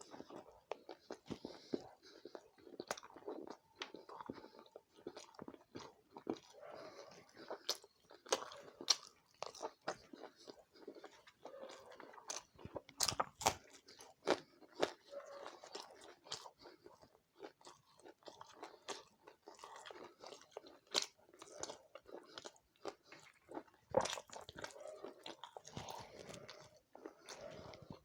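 Close-miked chewing and biting of chicken curry with rice and roti: wet mouth sounds mixed with crunchy bites and irregular sharp clicks.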